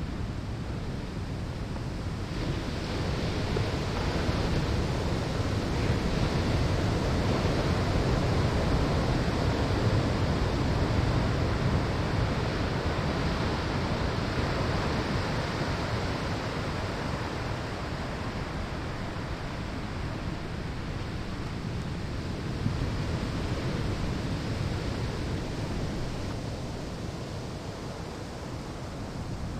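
Ocean surf breaking on a sandy shore: a steady rush of noise that swells over the first few seconds, peaks, then slowly ebbs.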